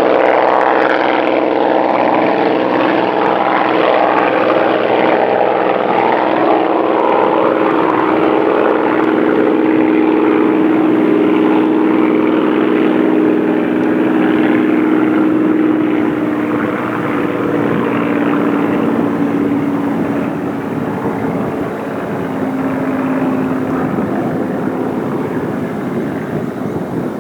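Hawker Hurricane's Rolls-Royce Merlin V12 engine and propeller running under power in a steady, loud drone. In the second half the pitch sinks a little and the sound eases off as the aircraft draws away.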